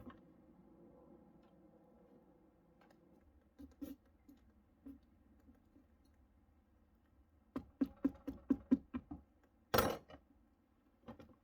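Kitchen knife cutting into a pumpkin's shell: scattered short cuts at first, then a quick run of about ten sawing strokes, followed by a single louder knock.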